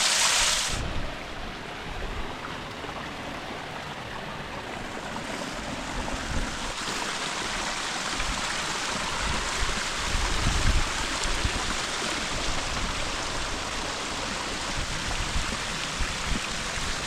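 Steady rush of running water from a creek and its waterfall cascades, louder for a moment at the start and again from about halfway, with irregular low rumbles underneath.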